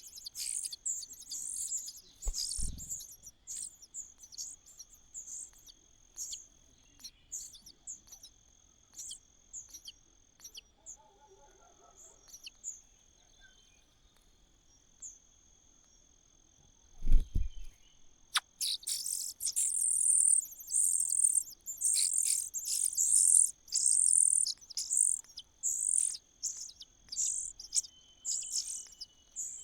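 Nestling birds chirping in short, high-pitched calls, sparse in the middle and dense again for the last ten seconds, over a steady high insect trill. Two dull thumps, one about two seconds in and a louder one about halfway through.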